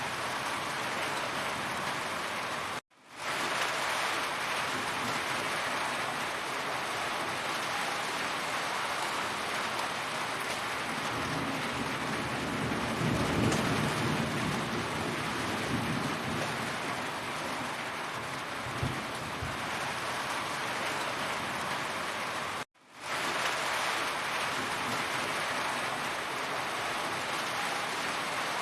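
Heavy rain falling steadily, with a low rumble of distant thunder swelling about halfway through. The sound cuts out abruptly twice, for a split second each time, and fades straight back in.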